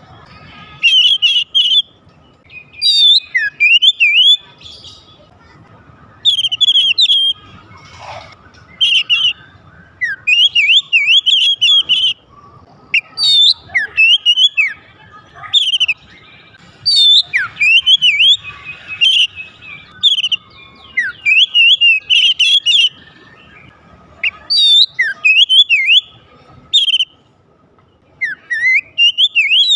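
Oriental magpie-robin (kacer) singing: loud, rapid phrases of chirps and sweeping whistles, each lasting about a second, repeated every second or two with short pauses between.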